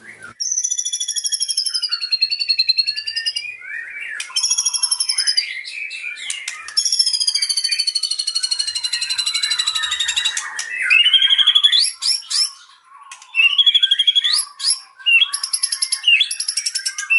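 White-rumped shama (murai batu) singing a fast, varied song: rapid buzzy trills of repeated notes, high whistled phrases and short chattering notes, with a short pause about three-quarters of the way through.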